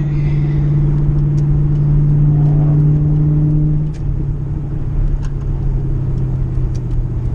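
Car engine running at a steady cruise, a loud even drone; about four seconds in it eases off and drops slightly in pitch.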